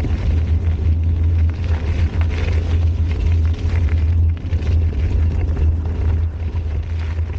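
Wind rumbling on the camera microphone of a moving bicycle, steady throughout. Rough tyre and trail noise with frequent small rattles rides over it.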